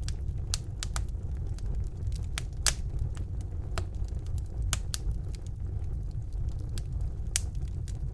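Wood fire burning in a fireplace: a steady low rumble of the flames with irregular sharp crackles and pops, the loudest about three seconds in and again near the end.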